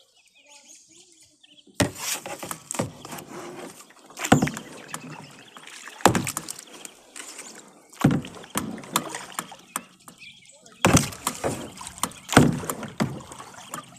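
Kayak paddle strokes: the blades dip and splash in the water about every two seconds, six strokes in all, each a sharp splash that trails off.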